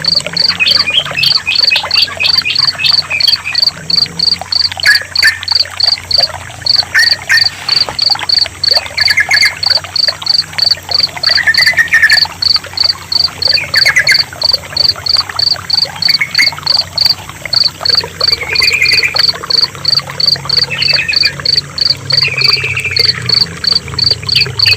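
A cricket chirps steadily, about three to four pulses a second. From about five seconds in, short phrases of yellow-vented bulbul song come roughly every two seconds, over trickling water.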